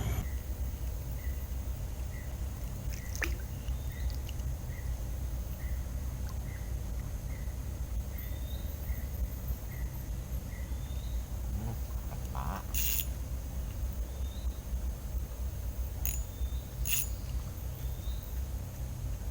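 Forest riverside ambience: a short high call repeating about twice a second through the first half, then a higher rising chirp about once a second, over a steady low rumble. A few sharp clicks stand out, the clearest about two-thirds of the way through.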